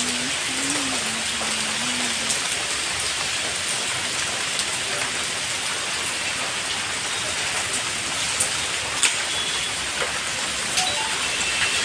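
Heavy rain pouring steadily onto paving and parked cars: a dense, even hiss, with a few sharp drip taps here and there.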